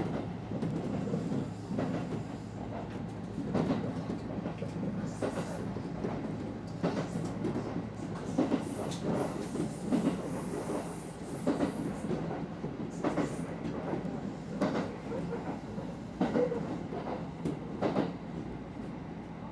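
Kintetsu Ikoma Line electric commuter train running along the track, heard from inside the cab: a steady running hum with wheels clacking over rail joints about every second and a half.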